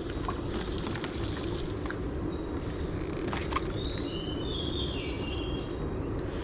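Steady low outdoor rumble, with a bird giving a few short, high whistled calls a little past the middle.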